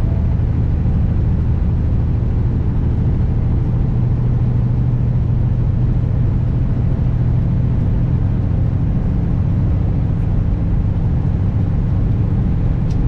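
Kenworth W900 semi truck's diesel engine running steadily at an even pitch under road noise, cruising without revving up or down.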